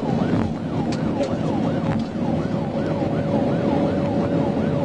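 Police car siren on yelp, a fast rising-and-falling wail about three or four times a second, over the patrol car's engine and road noise at speed.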